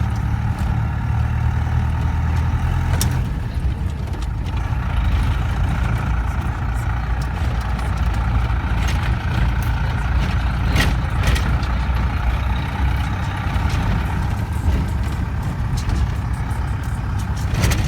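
Motor vehicle on the move: a steady, heavy low rumble of engine and road noise, with a few short knocks and rattles.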